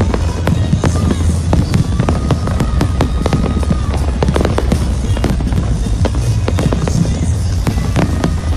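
Fireworks going off in rapid succession: a dense, continuous run of bangs and crackles, several a second, over a steady low rumble.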